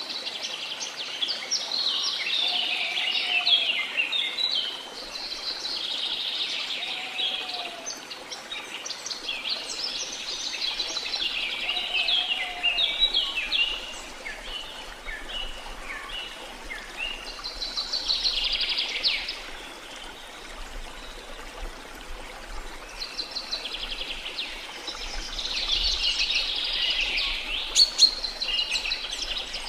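Many birds chirping and trilling in dense bursts over the steady rush of a waterfall. A short, low, down-curving whistled note comes back every few seconds in the first half.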